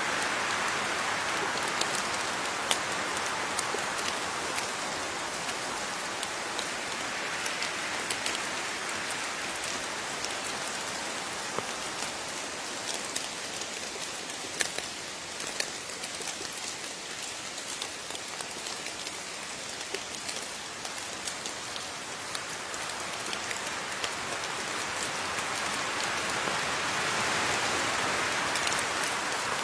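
Steady rain falling, with individual drops ticking sharply on a surface through the hiss. The rain swells a little near the start and again near the end.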